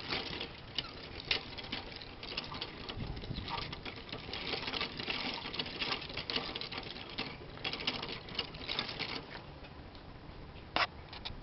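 Rapid, irregular light scratching and tapping, like small claws or a beak on a hard surface, with a sharper tap near the end.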